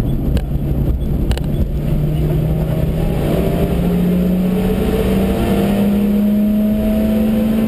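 Suzuki Swift's engine heard from inside the cabin, pulling hard through one gear with its pitch rising steadily, over tyre and road noise. A couple of short knocks come in the first second or so.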